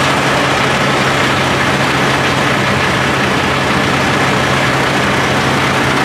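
Semi truck's diesel engine idling close by: a steady, even low hum that does not change.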